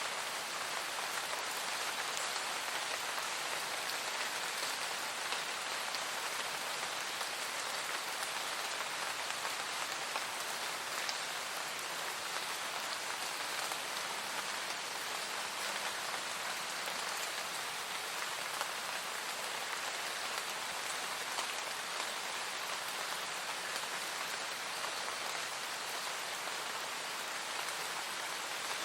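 Steady, calm rain falling: an even hiss of rain with a fine patter of individual drops.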